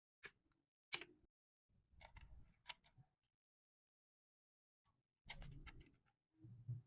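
Small hard parts and tools being handled: two sharp clicks, the second loudest, then short bursts of clattering and scraping.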